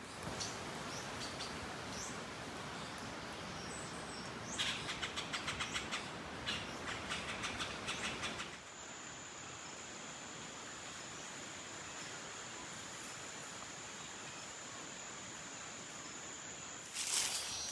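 Tropical forest ambience: a steady hiss, with a rapid run of clicking animal calls from about four to eight seconds in. After that a steady high-pitched insect whine holds until a burst of rustling near the end.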